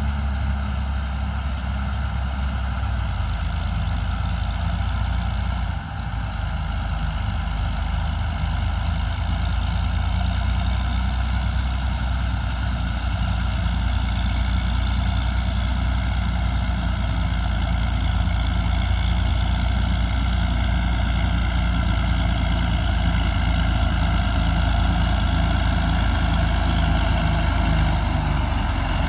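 Heavy diesel engine of harvest machinery running steadily under load, with a brief dip about six seconds in and the sound growing slowly louder after that.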